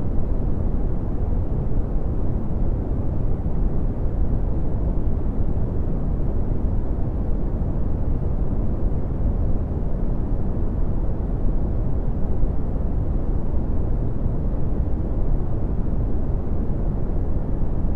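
Steady red (Brownian) noise: a deep, even rumbling hiss, loudest in the bass and with almost no treble, unchanging throughout.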